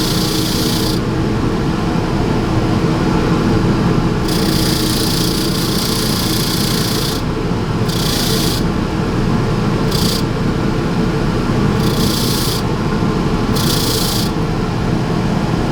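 Motor-driven wire wheel running at low speed with a steady hum, while a vacuum brush attachment is pressed against it six times. Each contact is a hissing scrape as the spinning wires comb fluff out of the bristles.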